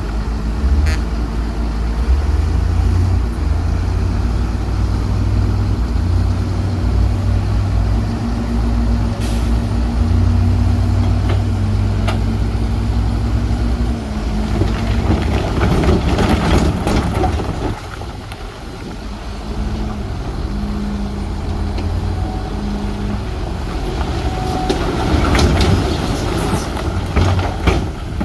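Heavy diesel construction machinery (bulldozers and dump trucks) working. The engines run steadily, shifting up and down in pitch, with two spells of louder, noisy clatter about halfway through and again near the end.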